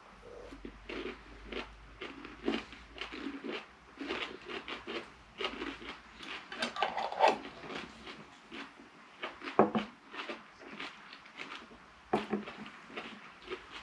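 People chewing crunchy chilli pickled onions, with irregular crunching and wet mouth sounds, and a few louder knocks.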